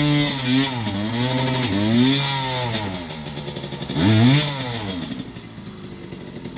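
Dirt bike engine revved in repeated blips, its pitch rising and falling several times with a strong rev about four seconds in, then settling to a lower, steadier idle near the end.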